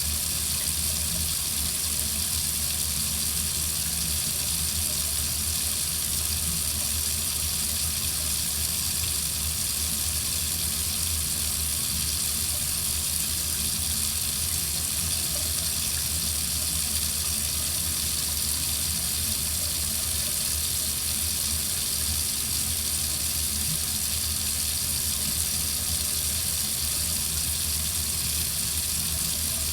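Water faucet running steadily: an even, unbroken hiss of flowing water with a low rumble beneath.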